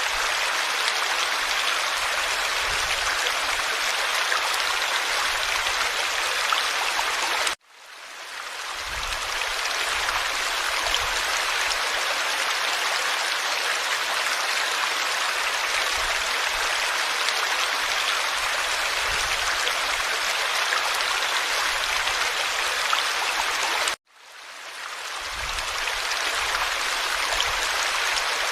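Forest stream, water flowing and babbling steadily. The sound cuts out suddenly twice, about 8 and 24 seconds in, and fades back in over a second or two each time.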